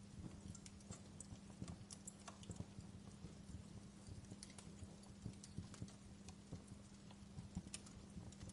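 Wood fire crackling in a fireplace: irregular small pops and snaps, several a second, over a soft hiss, with a faint steady low hum underneath.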